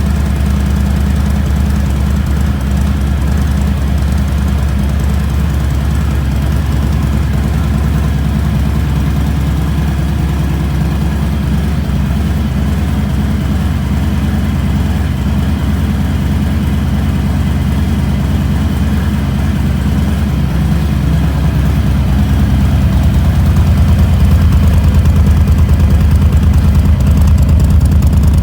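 Harley-Davidson Fat Boy V-twin engine idling steadily through Cobra 3-inch RPT slip-on black mufflers, with a deep, low exhaust note. The sound grows somewhat louder for the last several seconds.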